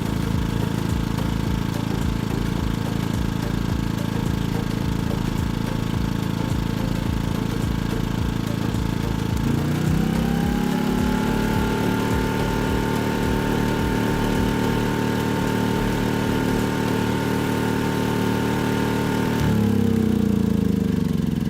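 Dometic PGE121 petrol inverter generator running at a low, even idle. About halfway through, its engine speeds up, bringing in a higher whine, and holds there. Near the end it drops back down.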